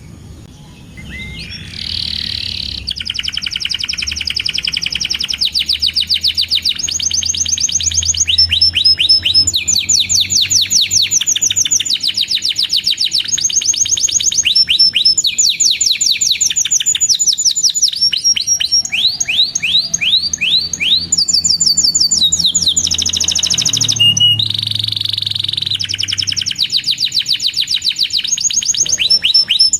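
Canary singing a long, continuous song of rapid trills, each a fast run of repeated high notes, switching to a new trill every second or two; the song starts about a second in.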